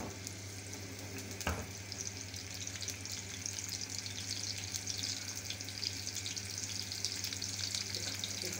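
Sliced onion, whole dried red chillies and cumin seeds sizzling in hot ghee in a frying pan as a baghar (tempering): a steady crackling sizzle that grows a little louder. There is a single knock about one and a half seconds in.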